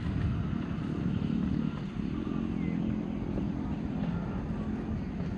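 A motor vehicle engine running steadily with a low drone.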